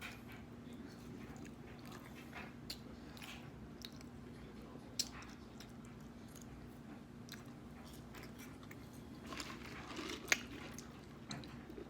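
A person eating close to the microphone: chewing and biting, with scattered short crunches and a denser burst of crunching about ten seconds in, over a faint steady hum.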